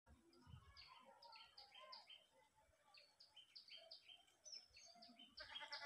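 Faint birdsong: small birds chirping in short repeated high notes, several a second, a little louder near the end.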